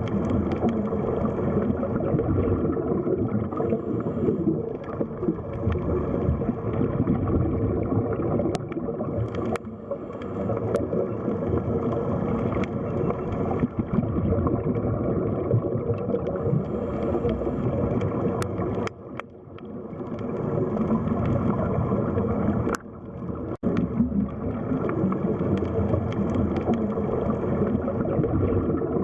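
Underwater sea-floor ambience: continuous muffled gurgling and rushing water, with a few faint clicks. It drops away briefly twice in the second half.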